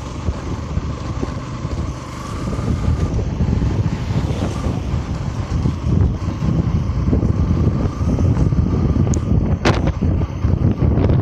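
Heavy wind buffeting on the microphone of a moving Yamaha FZS V3 motorcycle, with the bike's engine running beneath it. The buffeting grows louder about two and a half seconds in, and a short sharp sound cuts through near the end.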